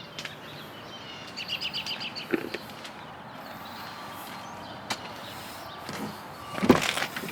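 Outdoor background noise with a bird chirping a quick run of high notes about a second and a half in, and a brief knock near the end.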